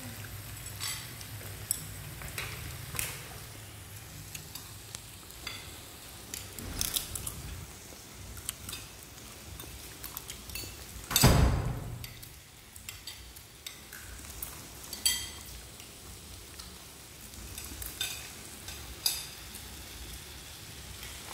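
Meat, seafood and vegetables sizzling in a pan on a portable gas stove, with frequent small clicks of chopsticks against the pan and dishes. A loud thump about halfway through.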